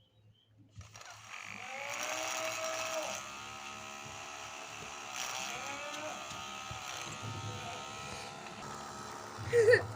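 Small electric motor of a homemade matchbox toy tractor starting about a second in and running with a buzzing whine whose pitch wavers up and down. A short, sharp, louder sound comes near the end.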